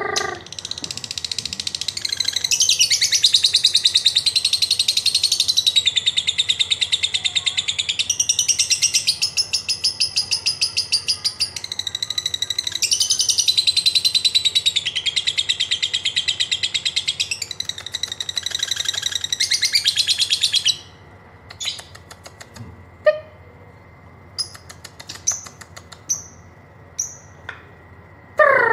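Lovebird's long "ngekek" song: a rapid, pulsing high-pitched chatter held for about twenty seconds, then breaking off into scattered short ticks and chirps ("ngetik").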